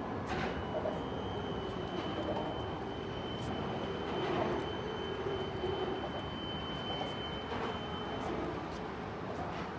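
Steady mechanical rumble with a thin, steady high whine over it from about half a second in until near the end.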